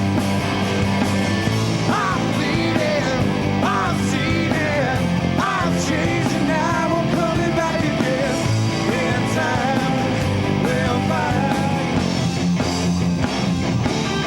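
Rock band playing live: drums, bass and electric guitars at full volume, with a wavering melody line over them.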